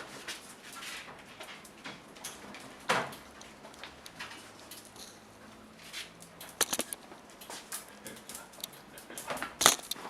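Airedale terrier puppy moving about, giving irregular taps, scuffs and rustles: a sharp one about three seconds in, a quick run of clicks in the middle, and the loudest near the end.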